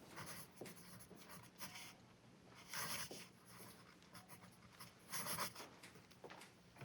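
Faint scratching of writing by hand on paper, in short irregular strokes with pauses, the strongest about three seconds in and again just past five seconds: entries being written on a train sheet and in an order book.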